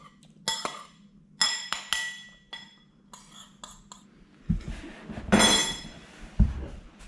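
Cutlery clinking and tapping against a ceramic dish, a run of short ringing clinks, the noise she makes to tell her cats she is almost finished eating. In the second half come a few dull low thumps and a brief rustle.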